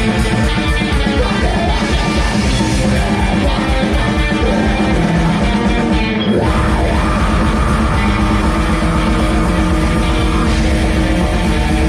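Rock band playing live, with guitar and drum kit, loud throughout. About six seconds in the band breaks briefly, then comes back in with steady held low notes.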